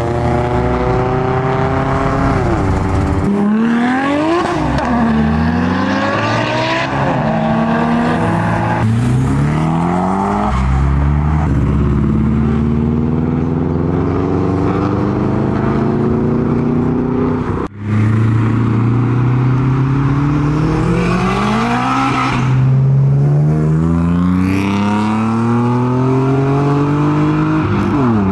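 Modified Japanese cars' engines accelerating away one after another, each revving up with the pitch climbing, then dropping back at a gear change before climbing again.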